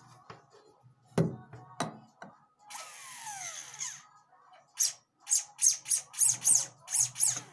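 Small jeweller's tools at work on an earring. Two sharp knocks, then a brief run of a small rotary tool whose pitch falls as it spins down, then a quick series of about eight short scraping strokes.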